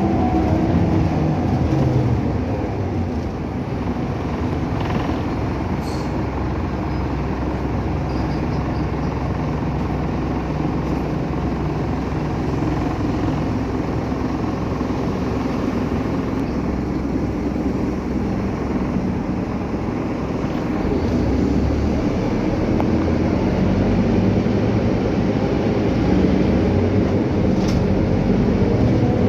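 Scania K310UA articulated bus's diesel engine running under way, heard from inside the cabin over road and body noise. The engine note falls in the first couple of seconds as the bus slows, and rises again near the end as it pulls away.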